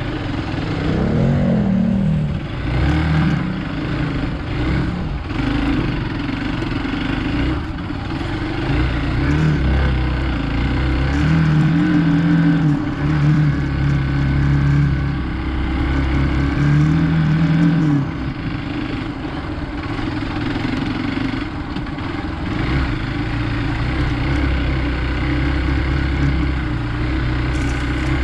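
Hero Xpulse 200 single-cylinder motorcycle engine working off road, its pitch rising and falling as the throttle opens and closes, with steadier held stretches in the middle.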